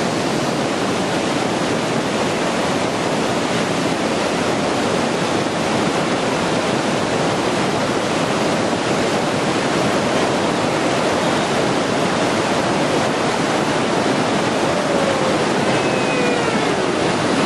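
Whitewater rapids rushing steadily, heard close up from a raft on the river.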